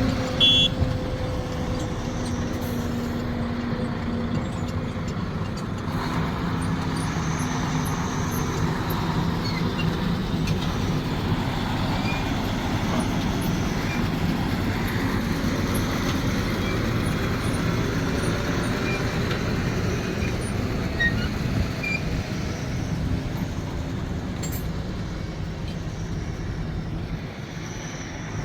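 Diesel engine of a Sumitomo SH370LHD-6 excavator running steadily under work, its pitch drifting slightly. There is a short high-pitched chirp about half a second in.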